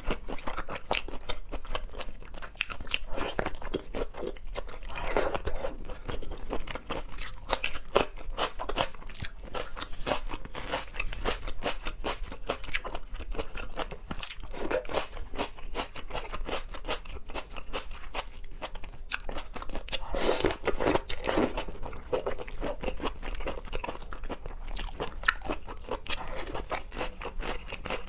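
Close-miked eating of shrimp and lobster: a dense, continuous run of crunching bites and chewing clicks.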